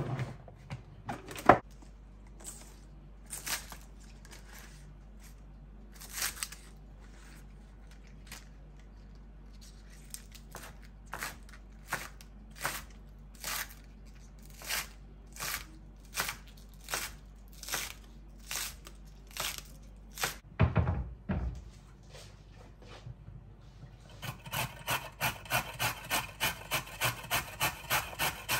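Repeated short rubbing or scraping strokes, at first irregular, then about one a second, quickening to about three a second near the end, with one low thump about two-thirds of the way through.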